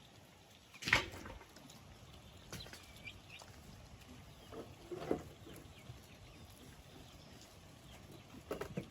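A few short, sharp animal sounds, the loudest about a second in, another near the middle and a cluster near the end, with faint bird chirps between.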